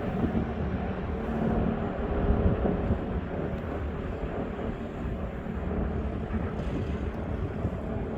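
Steady low engine rumble of passing vehicles over open-air background noise. A humming engine tone is strongest for the first few seconds, then fades into an even rumble.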